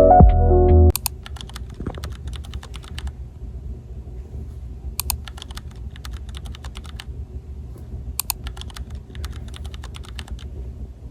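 Background music stops about a second in, giving way to runs of quick, light clicks over a low steady hum.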